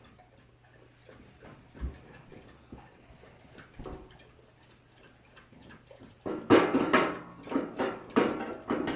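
Faint ticks and small knocks, then from about six seconds in a run of loud metal clanks and rattles as the steel motorcycle hitch carrier is tipped and flipped over.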